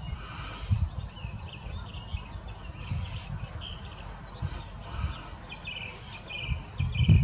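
Small birds chirping in short series of quick high notes, over an uneven low rumble.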